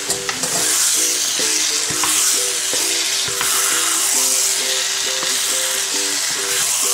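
Boiled chickpeas and masala sizzling in a frying pan while a wooden spatula stirs them, the sizzle swelling and easing every second or so with a few light scrapes. Light background music plays underneath.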